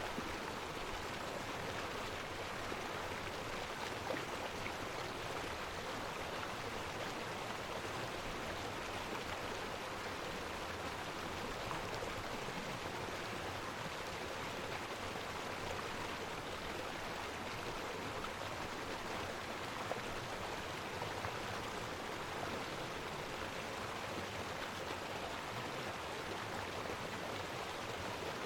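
Stream water rushing steadily over waterfall cascades: an even, unbroken rush.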